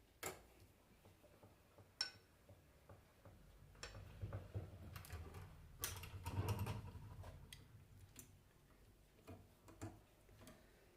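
Scattered light clicks and knocks of alternator parts and tools being handled on a workbench, with a low rumble of handling in the middle.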